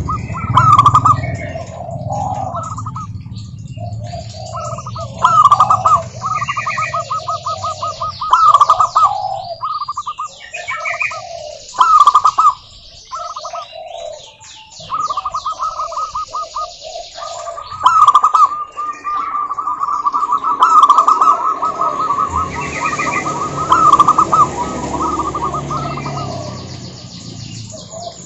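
Zebra doves cooing in long runs of rapid, staccato notes, the calls overlapping one another, with fainter high chirps over them.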